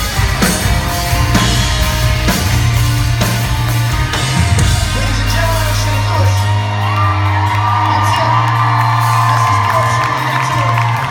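Live pop-rock band playing, with singing and crowd whoops. The drums drop out about halfway, leaving a held bass and a sustained high melodic line.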